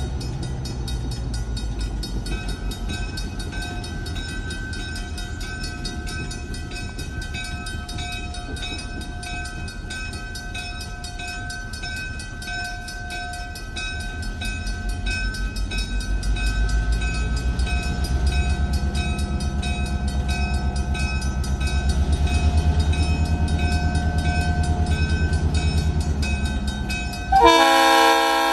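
Railroad crossing bell ringing steadily over the low running of a diesel locomotive's engine, which grows louder about halfway through. Near the end the locomotive sounds its horn, a loud chord of several notes that starts suddenly.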